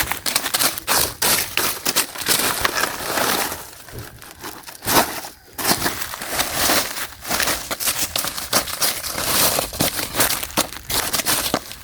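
Plastic and rubbish crinkling and crunching in a dense, uneven run of crackles, as of hands rummaging through discarded waste.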